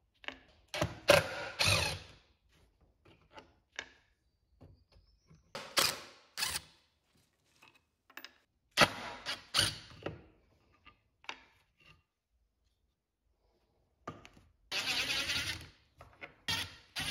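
Workshop tool and handling sounds on metal and wood chair parts: irregular knocks and clicks with short scraping strokes, and a steady hissing burst of about a second and a half near the end.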